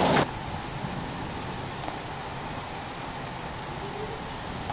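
Heavy rain falling as a steady hiss. A moment in, the sound drops abruptly from a loud, close downpour to a quieter, more even rain.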